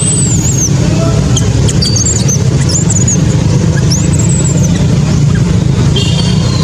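Baby monkey crying in a few thin, very high-pitched squeals that rise and fall, over a loud steady low rumble.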